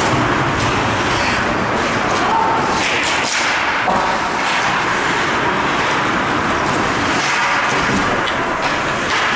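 Steady ice hockey rink noise: skates scraping the ice under a general arena hubbub, with a couple of sharp knocks about three and four seconds in.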